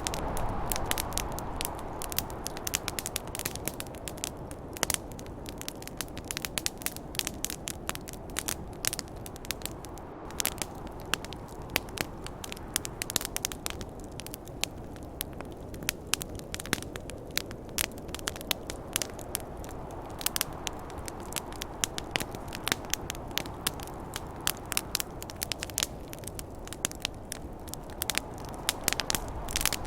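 Wood campfire crackling, with a constant stream of sharp pops and snaps. Under it runs a steady rush of snowstorm wind that swells a few times.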